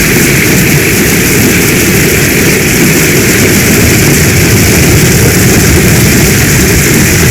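Heavy storm rain falling in a loud, steady hiss over a continuous low rumble.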